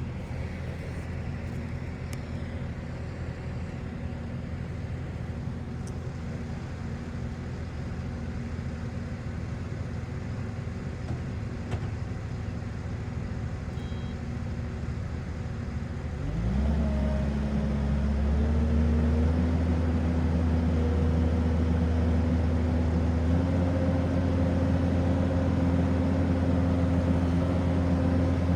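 Kubota SVL65-2 compact track loader's diesel engine running at idle, then throttled up sharply a little past halfway to a louder, higher steady speed, stepping up once more a few seconds later.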